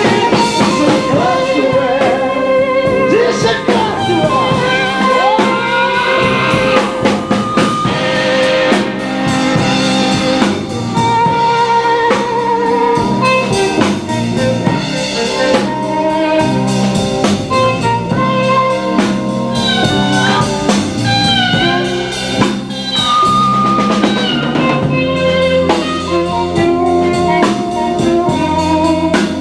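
Live blues band playing a slow blues with a drum kit, the lead line full of bending notes.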